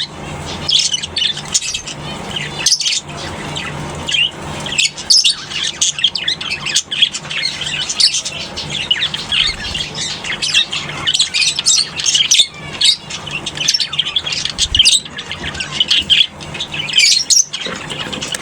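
A flock of lovebirds chirping and squawking nonstop, many short, shrill calls overlapping, with a faint steady low hum underneath.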